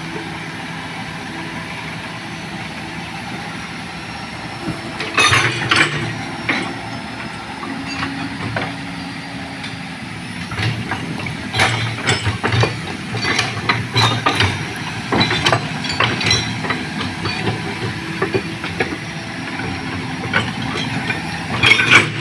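Heavy diesel vehicles, a truck and heavy machinery, running steadily, with irregular knocks and rattles starting about five seconds in.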